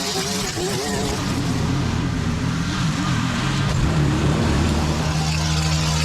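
An engine running steadily, its hum firming up a couple of seconds in, with a voice faintly over it near the start.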